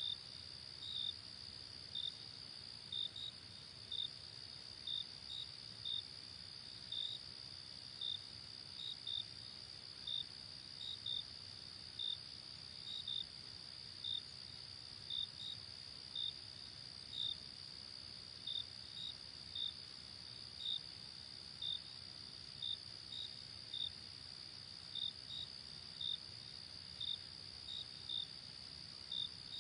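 Night insect chorus: a steady high-pitched trill with short cricket chirps repeating about once or twice a second on top of it.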